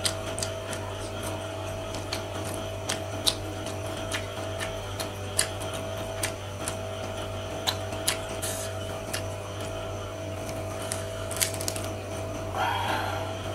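Close-miked chewing with irregular wet mouth clicks and smacks, several a second. Near the end comes a short, crunchier rustle as a battered, fried shrimp is torn apart by hand. A steady low electrical hum runs underneath.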